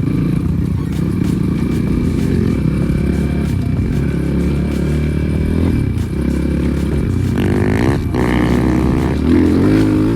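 Air-cooled 300 cc single-cylinder enduro motorcycle engine (Progasi Super Max 300) running under way, revving up about seven seconds in and again near the end.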